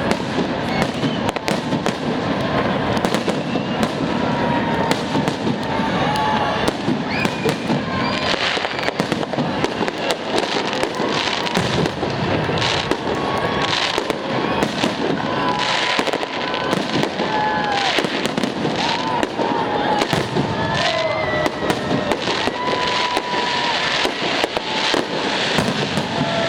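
Fireworks salute: a long, continuous run of bangs from bursting shells, some crisp and some overlapping, with onlookers' voices underneath.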